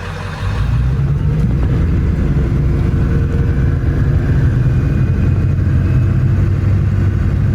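Ford F-350's 7.3-litre Powerstroke diesel engine running as the truck drives off. The sound rises about half a second in, then holds steady.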